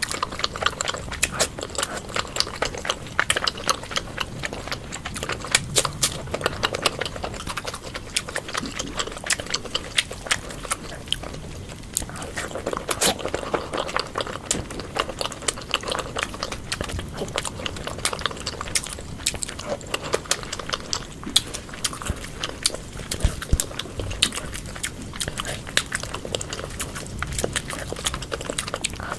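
Close-miked chewing and wet mouth smacking of food, with many small sharp clicks throughout.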